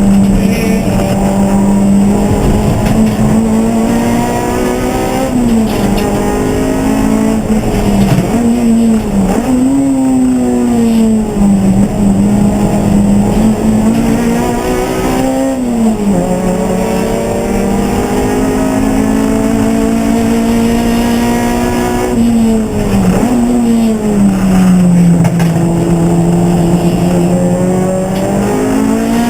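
Race car engine heard without a break, its pitch climbing steadily and then dropping sharply, over and over, as it accelerates through the gears and brakes and shifts down for corners.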